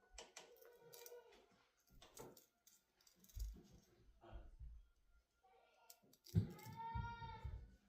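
Faint snips of scissors cutting wig lace, with light clicks and handling thuds. Near the end a short pitched sound rises and falls.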